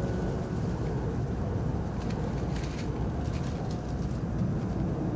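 Shinkansen bullet train heard from inside a passenger car as it pulls out of the station: a steady low rumble of the running gear on the rails.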